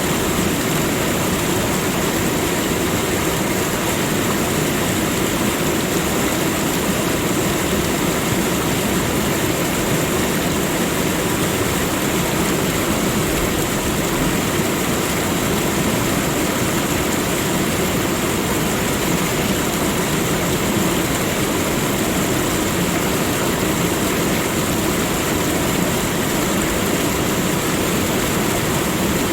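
Steady, unchanging rushing noise of a continuous nature ambience, with no distinct events or rhythm.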